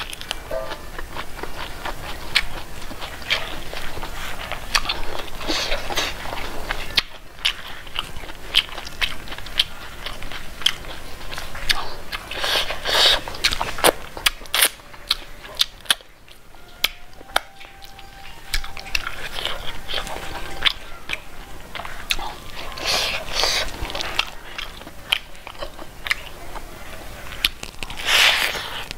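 Close-miked eating by hand: wet chewing with many lip smacks and clicks, and louder crunchy bites from time to time, the loudest about halfway through, again two-thirds through and near the end.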